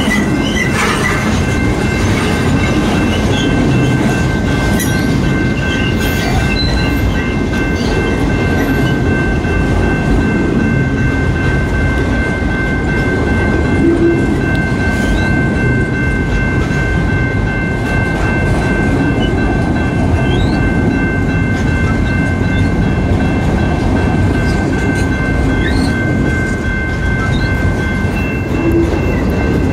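Freight train's autorack cars rolling past: a steady rumble of wheels on the rails with some clickety-clack, and a few thin steady high tones held over it throughout.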